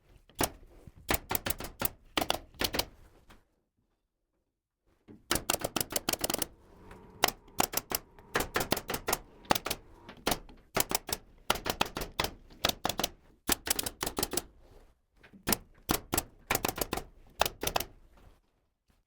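Pneumatic nail gun firing in quick runs of sharp shots, several a second, fastening wooden ceiling framing, with a short pause a few seconds in.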